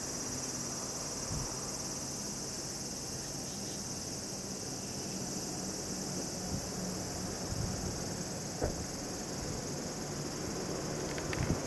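Insects chirring steadily and high-pitched, a continuous summer insect chorus, with a couple of faint knocks near the end.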